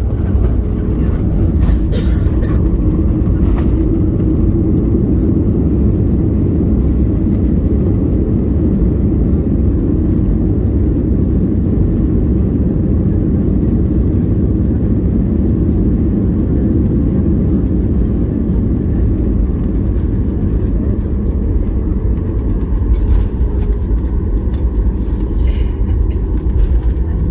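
Steady low road rumble heard from inside a moving road vehicle.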